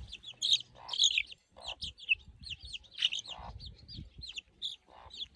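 Baby chicks peeping: a constant stream of short, high, falling chirps, several a second, as they feed.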